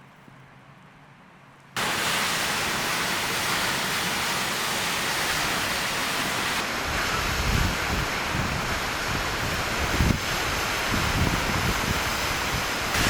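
Waterfall: a loud, steady rush of falling water that cuts in suddenly about two seconds in after a quiet opening. From the middle on, wind buffets the microphone in low gusts.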